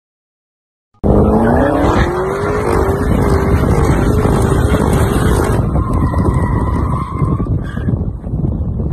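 A car driving hard, starting abruptly about a second in. An engine-like note rises, then holds with a wavering pitch over loud road noise. A higher squeal follows near the end.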